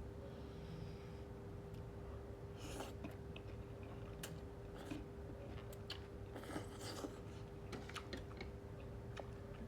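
Crisp snapping and rustling of fresh vegetables being picked and torn by hand, in scattered short crackles with two denser bursts, over a faint steady hum.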